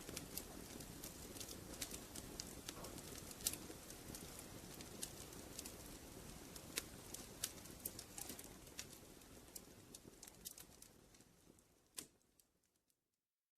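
Fireplace fire crackling, with irregular sharp pops and snaps over a soft low rumble of the flames. The sound fades out over the last few seconds to silence, with one last pop just before it dies away.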